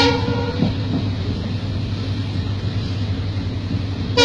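Steady low rumble of a moving passenger train, heard from inside the coach. A train horn sounds into the first half second, and a second short horn blast comes at the very end.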